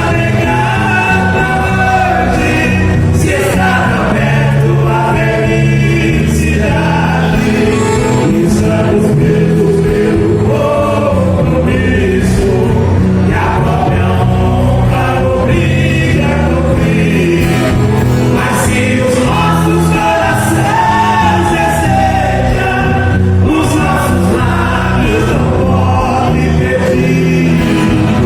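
A song: sung vocals over a continuous instrumental accompaniment, steady in level throughout.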